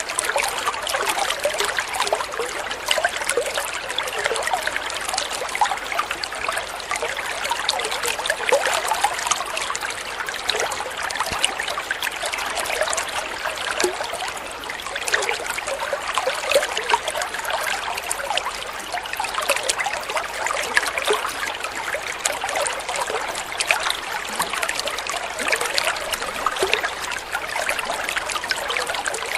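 Water flowing and trickling steadily, with a continuous bubbling, splashing texture and no pauses.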